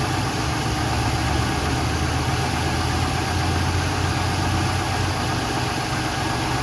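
1996 Chevrolet Monte Carlo's 3.1L V6 engine idling steadily.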